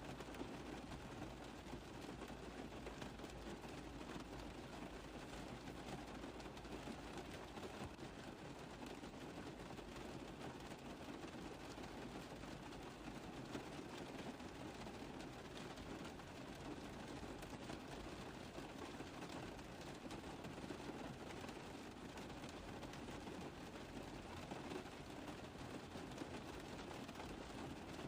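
Steady rain tapping on a car roof: a dense, even patter of many small drops that does not let up.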